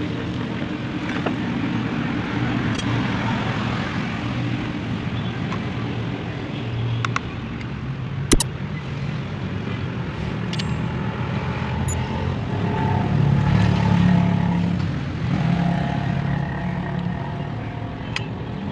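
An engine running steadily, growing louder for a while near the end, with a few sharp clicks.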